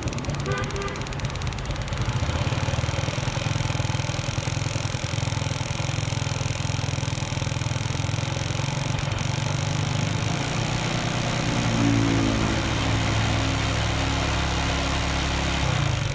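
Small motorbike engine running steadily after a hard-starting fault was cured with a new CDI ignition unit; about twelve seconds in it is opened up to about half throttle and its pitch rises.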